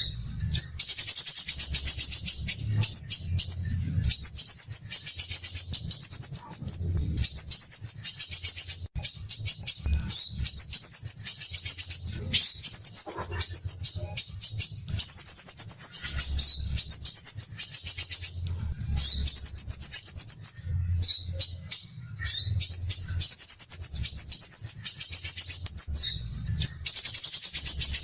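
Crimson sunbird (sepah raja) singing its harsh, tightly packed, very fast high-pitched trills. The song comes in phrases of a second or two separated by short breaks. A faint low rumble sits underneath.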